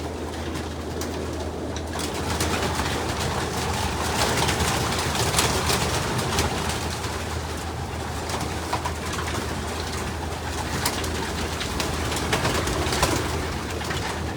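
A loft full of racing pigeons cooing, with repeated short bursts of wing flapping and scuffling as birds are caught by hand.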